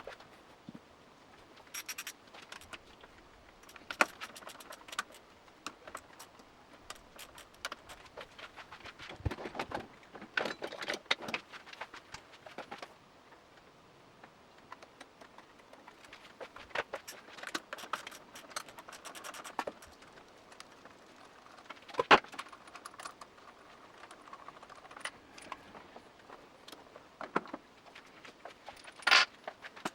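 Irregular metallic clinks, clicks and short jangling rattles of hand tools and small metal parts being handled while working on a motorcycle's right handlebar, with one sharper click about two-thirds of the way through.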